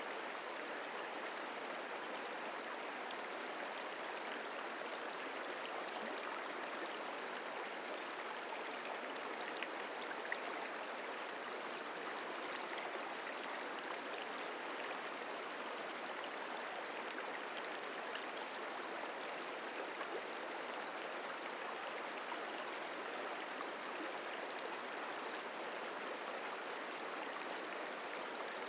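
The Merced River flowing: a steady, even rush of running water.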